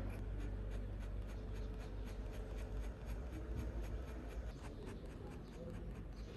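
Ink pen scratching across sketchbook paper in quick, repeated strokes, about four a second, as when hatching.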